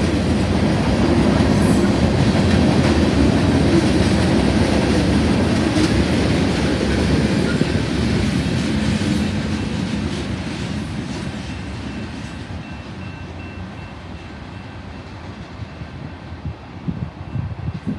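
Freight train's tank cars and covered hopper cars rolling past on the rails, a steady rumble of wheels on track that fades away over the second half as the end of the train moves off.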